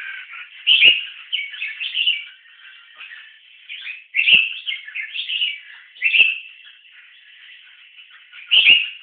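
Red-whiskered bulbuls singing against each other, trading short bright chirpy song phrases with a run of loud phrases spaced a second or two apart, typical of a bulbul singing contest. Faint low knocks come with several of the loud phrases.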